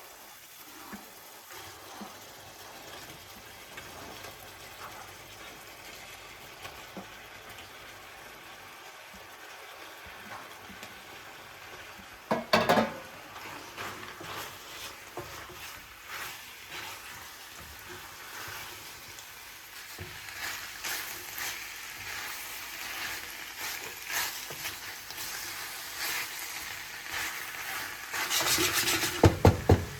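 Food sizzling in a frying pan as it is stirred, with a loud clatter of cookware about halfway through and a quick run of knocks near the end.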